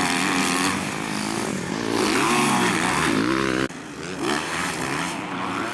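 250 cc motocross bikes racing, engines revving up and down. About three and a half seconds in the sound drops abruptly and carries on quieter.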